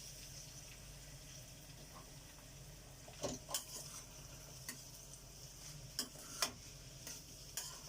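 Sliced onions sizzling faintly in hot oil in a pan, with a few sharp clicks of a spoon stirring against the pan, scattered through the second half. The onions are being sautéed with a little salt until they soften.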